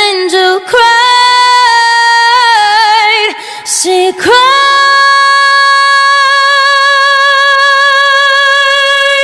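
A woman's voice singing a cappella with no words: quick ornamented runs, then from about four seconds in one long held high note.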